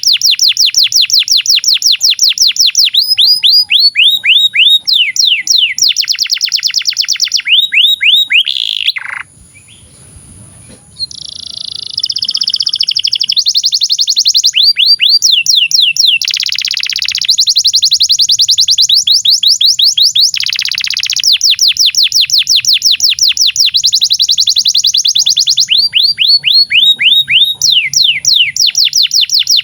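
Domestic canary singing a long song of fast trills, each a rapid run of short falling notes, changing from one tour to the next. The song breaks off for about two seconds around nine seconds in, then carries on.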